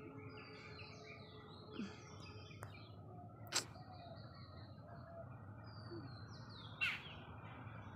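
Faint chirping of birds, many short high calls scattered throughout, over a low steady background. Two sharp clicks stand out, about three and a half and seven seconds in.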